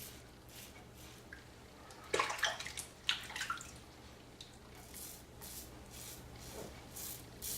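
Double-edge safety razor scraping through lathered stubble in short strokes, about two a second, during the first pass of a wet shave. About two seconds in, a brief louder splash of water breaks in for a second or so.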